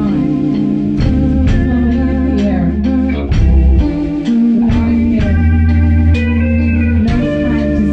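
A band playing an instrumental passage in rehearsal: held chords from guitar and keyboard over bass, with drums keeping a steady beat of about two hits a second.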